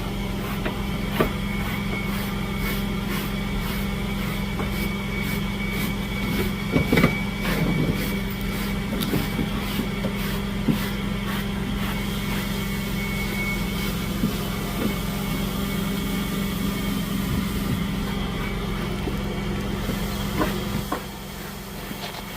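Vacuum cleaner running steadily on a dirty rug, with many small clicks and crackles of sand and grit being sucked up. It gets somewhat quieter near the end.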